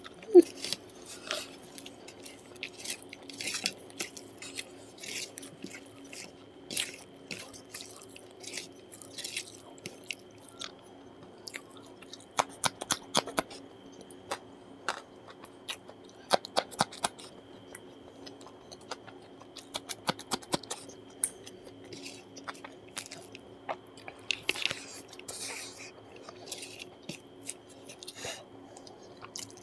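Close-miked chewing of a mouthful of rice and curry, with wet mouth smacks coming in quick runs of clicks. A faint steady hum lies underneath.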